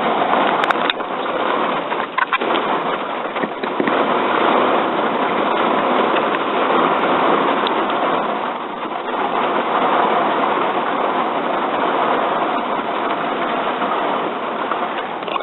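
Steady heavy rain falling on a van's roof and windows, an even hiss with a few faint ticks.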